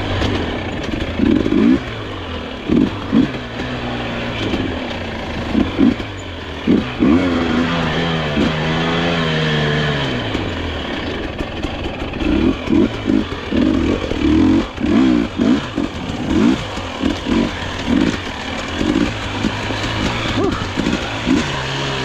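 Dirt bike engine running and revving in many short, sharp throttle blips. About a third of the way in there is a longer rev that rises and then falls away.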